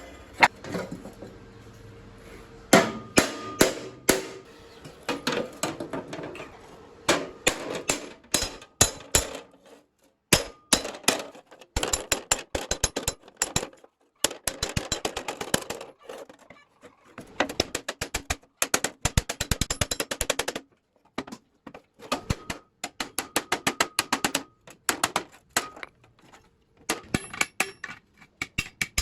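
Metal parts and hand tools clanking and clinking: many sharp strikes that ring briefly, some in fast runs, with short pauses between.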